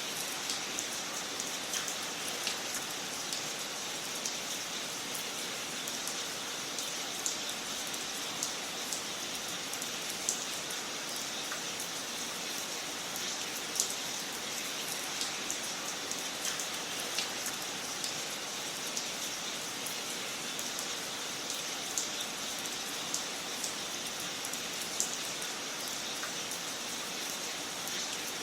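Fire crackling in a fireplace: a steady hiss with frequent small pops and a few louder snaps scattered throughout.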